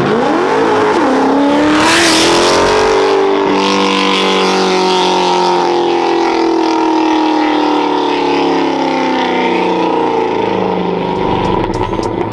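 A vehicle's engine revving up sharply, with a short hissing rush about two seconds in, then pulling steadily with its pitch slowly falling.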